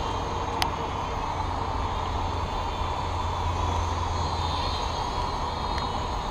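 High whine of a Syma X5C quadcopter's small brushed motors, rising and falling in pitch as it is steered, over a steady hiss of rain. One sharp tick about half a second in.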